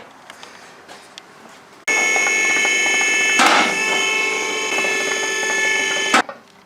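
A motor-driven tool or machine running with a steady, high whine for about four seconds. It starts and cuts off abruptly, with a short rush of noise partway through.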